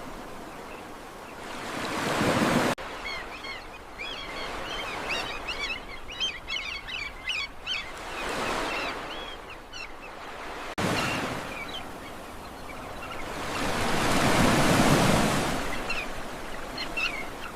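Ocean waves surging and washing in slow swells, with small birds chirping busily from about three to eight seconds in and a few more chirps near the end.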